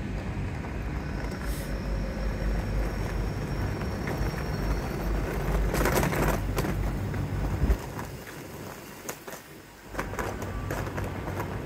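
Great Western Railway Intercity Express Train moving along the platform with a steady low rumble. The rumble falls away about eight seconds in, leaving a quieter station background.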